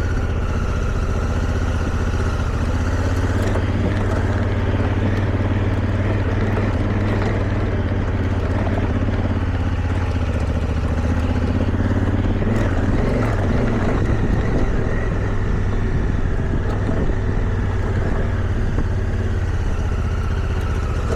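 Motorcycle engine running steadily under load as the bike climbs a rough, rocky dirt road, with occasional knocks from the tyres and chassis over rocks.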